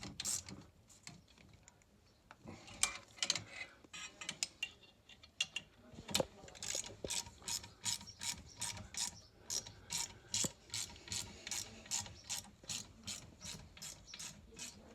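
Ratchet spanner clicking as bolts are tightened on the stairlift's motor and gearbox mounting. The clicks come in short irregular spurts at first, then from about six seconds in settle into a steady run of about three or four clicks a second.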